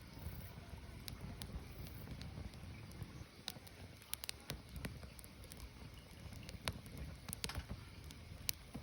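Firewood burning: irregular sharp crackles and pops of the burning wood over a low steady rumble.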